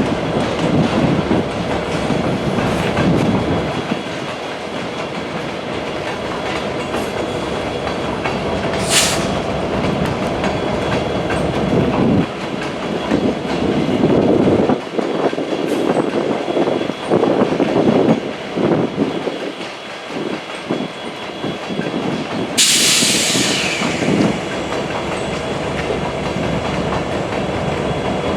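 Train cars rolling past with an uneven wheel clatter over the rail joints. A brief high wheel squeal comes about nine seconds in, and a stronger one near the end falls in pitch over a second or so.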